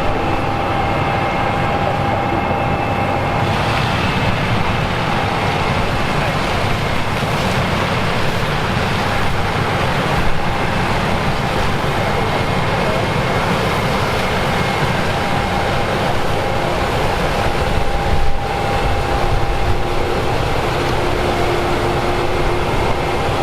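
Case IH AF10 combine's 15.9-litre engine and threshing machinery running steadily while harvesting corn. A continuous dense machine noise with a few faint steady whines.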